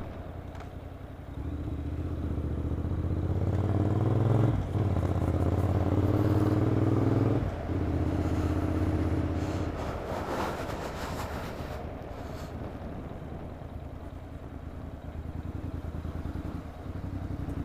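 Motorcycle with a Vance & Hines aftermarket exhaust accelerating, its note climbing over the first few seconds with a brief dip about four and a half seconds in. About seven and a half seconds in the rider rolls off the throttle, and the engine runs on lower and quieter.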